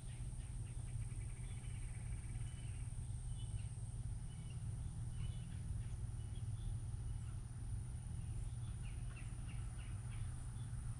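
Small birds chirping and twittering in short, scattered calls, with a quick rattling trill a second or two in, over a steady low rumble.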